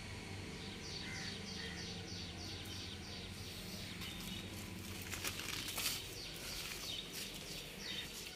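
A bird calling outdoors: a fast run of short, high, falling chirps, about four a second, then more scattered chirps. A few brief rustles come near the middle.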